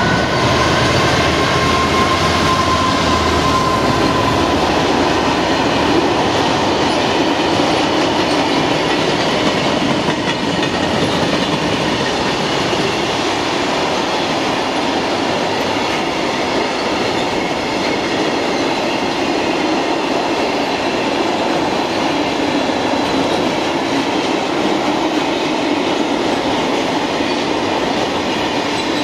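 Class 66 diesel-electric freight locomotive, with its two-stroke V12 diesel, running past in the first few seconds, with a deep engine rumble and a slightly falling tone. It is followed by a long train of loaded freight wagons rolling by at speed, with a steady rumble and rattle of wheels on the rails and a faint high wheel squeal.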